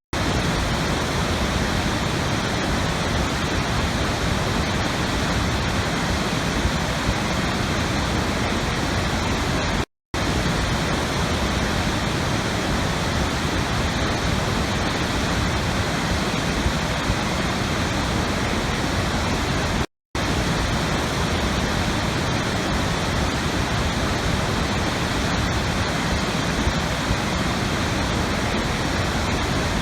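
Steady rush of falling water, even and unchanging, that cuts out for an instant twice, about ten seconds apart.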